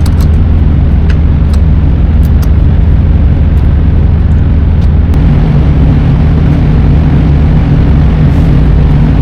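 Semi-truck's diesel engine running, a loud steady low drone with a few light clicks in the first couple of seconds; about five seconds in, its pitch steps up slightly.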